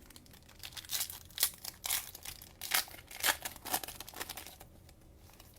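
Thin plastic crinkling and rustling as trading cards and their cello-pack wrapping or sleeves are handled, in a run of short irregular crinkles lasting about four seconds.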